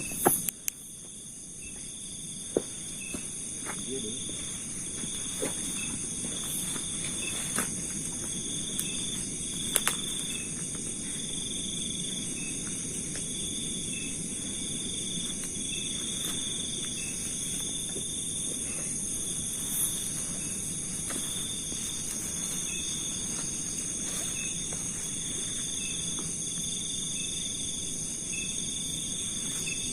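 Night insect chorus: crickets and other insects trilling steadily at several high pitches, one of them pulsing about once a second, over a low hiss. A few sharp knocks stand out, the loudest about two and a half seconds in and about ten seconds in.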